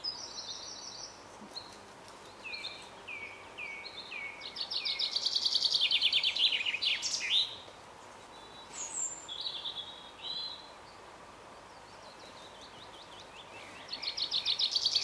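Small songbirds singing: a few short falling notes, then a loud fast trill of about three seconds, more calls, and another fast trill starting near the end.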